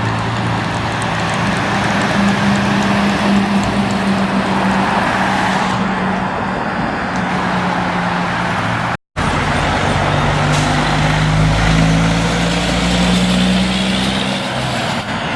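Heavy trucks running in road traffic: a steady engine drone over tyre and traffic noise. The sound cuts out abruptly for an instant about nine seconds in, and a deeper engine rumble follows.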